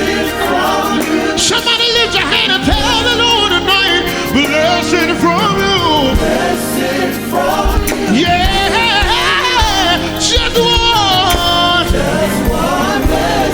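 Live gospel music: voices singing wavering, ornamented lines over a band with sustained keyboard chords and a drum beat.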